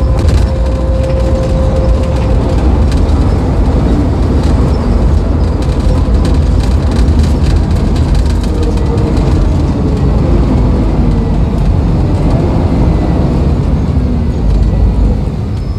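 Mercedes-Benz O-500UA articulated bus's diesel engine running under way, a loud steady low drone with body rattles. A whine that is audible at the start fades out about two seconds in.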